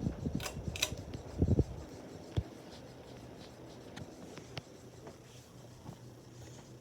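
A few knocks and rubbing sounds in the first couple of seconds, then a Hampton Bay Crest Hugger ceiling fan running with a low steady hum.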